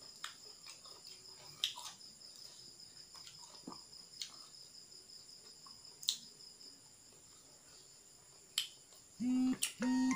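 Crickets chirping steadily at several high pitches, with scattered sharp clicks of chewing and mouth sounds from eating. About nine seconds in there are two short, loud pitched tones.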